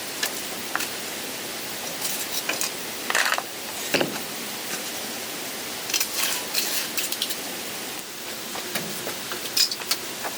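Steady hiss, like rain or running water, with scattered light clicks, clinks and rustles of objects being handled.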